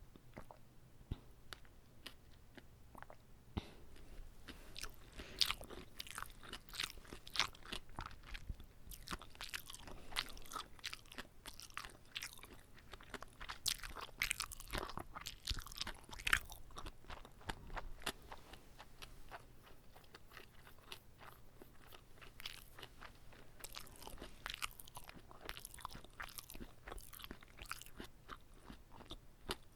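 Close-miked chewing of a whole gimbap roll: irregular wet crunches and crackles of rice, laver seaweed and fillings, among them garlic chives, in the mouth, busiest from a few seconds in and again near the end.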